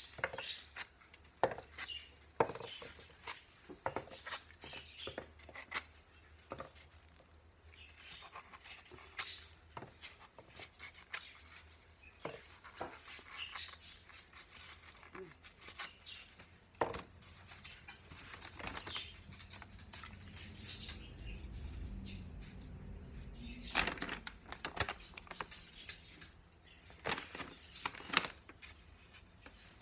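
Irregular small clicks, taps and rustles of close handling work, with occasional faint chirps from a young pet bird. A low rumble runs for a few seconds about two-thirds of the way through.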